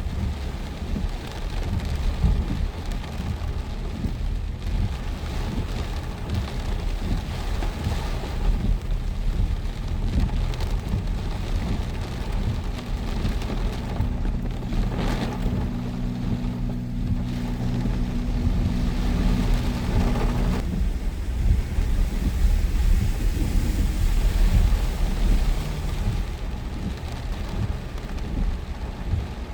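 Heavy rain with gusting wind buffeting the microphone, under a constant deep rumble. For several seconds around the middle a steady low hum joins in, then stops abruptly.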